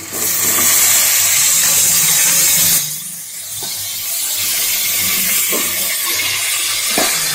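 Boiled chicken pieces sizzling as they land in a hot pot of fried onion-tomato masala: a loud sizzle that drops to a quieter, steady sizzle about three seconds in, with a few light knocks of a wooden spatula.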